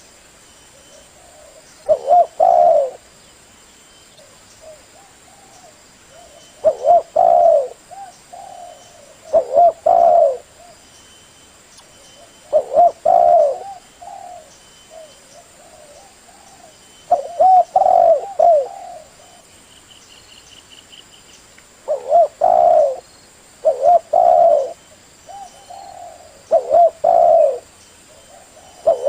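Male spotted dove (tekukur) cooing: about eight phrases of low, rolling coos, each about a second long and a few seconds apart. This is the call a male uses to attract females, played here as a lure.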